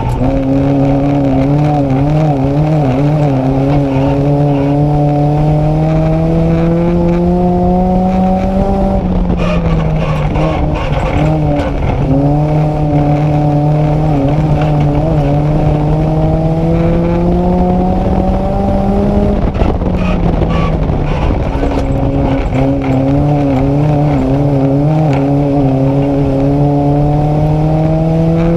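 Nissan Micra race car's engine heard from inside the car, pulling under load with the revs climbing slowly. It eases off briefly about 9 and 20 seconds in, then climbs again each time.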